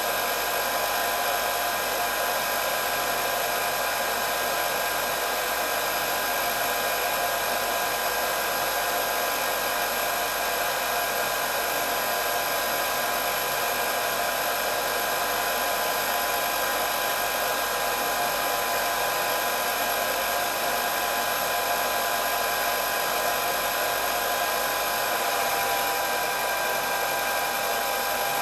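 Hair dryer running steadily: a constant rush of air with a high motor whine held at a few unchanging pitches.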